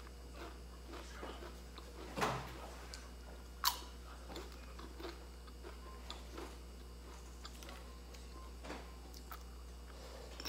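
Close-up chewing and crunching of crispy fried cakes (bánh chiên giòn), with small crackles throughout, a louder crunch about two seconds in and a sharp click about three and a half seconds in.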